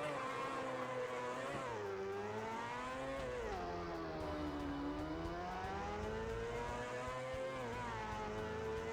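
Motorcycle engine revved up and held at high revs, its pitch sagging briefly about two seconds in and more deeply around the middle before climbing back and holding steady.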